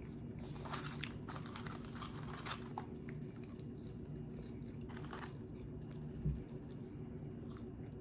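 Close-up chewing and mouth sounds, with a few short crunchy bites, over a steady low hum.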